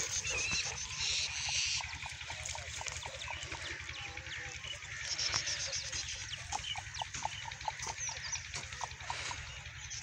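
Birds chirping and calling in many short, quick notes, over a steady low rumble on the microphone.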